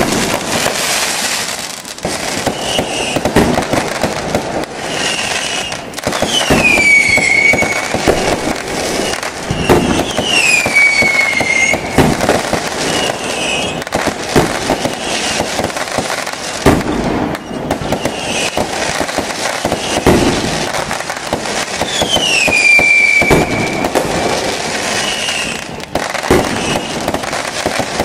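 Fireworks display: continuous crackling and popping of bursting shells, with three whistling tones that fall in pitch.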